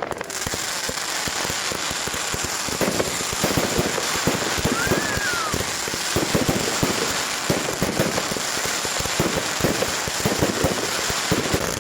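Fireworks crackling densely and continuously, a rapid patter of small pops. A short whistle rises and falls about five seconds in.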